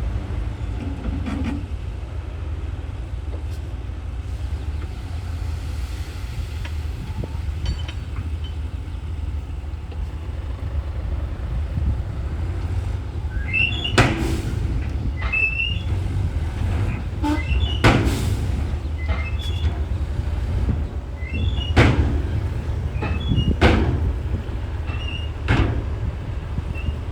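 Komatsu bulldozer's diesel engine running with a steady low rumble. From about halfway on, a sharp metallic clank comes every few seconds with short high squeaks, as the steel tracks and blade work the dirt.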